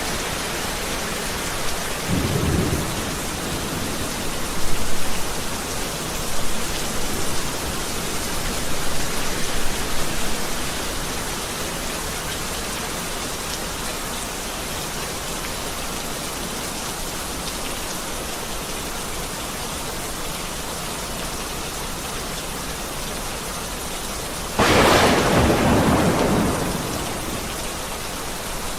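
Heavy rain falling steadily, with low thunder rumbling in the first ten seconds. Near the end a sudden loud thunderclap breaks out and rolls away over about two seconds.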